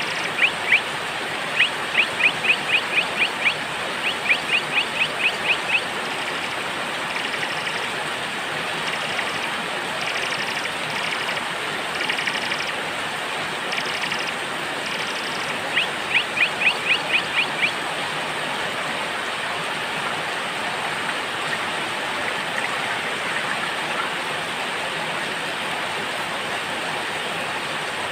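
Steady rain hiss with small birds calling over it. One bird gives quick runs of sharp, evenly repeated notes, several times in the first six seconds and again around the middle, with fainter high chirps in between.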